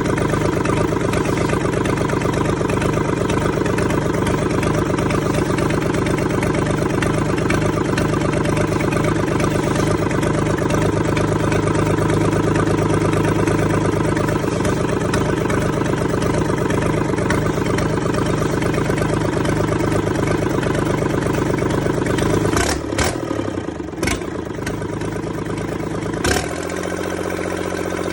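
Komatsu 3D84-2 three-cylinder diesel engine running steadily. A little over twenty seconds in, there are three sharp knocks, and then it settles into a different, slightly quieter steady running note.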